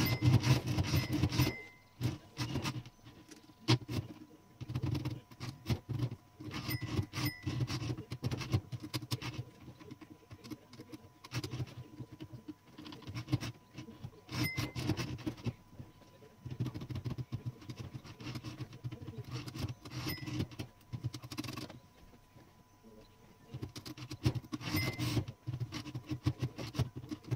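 Small metal typewriter parts clicking, rattling and scraping under hand work, in bursts of a few seconds with short pauses between.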